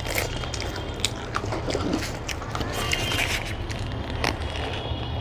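People biting into and chewing egg rolls, with many short mouth clicks and crackles over a steady low hum.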